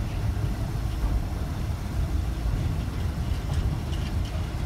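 Container flat wagons of a freight train rolling past: a steady low rumble of steel wheels on the rails.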